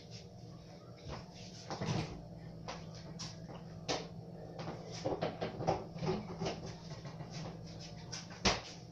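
Scattered small clicks and knocks, like things being handled, over a steady low hum.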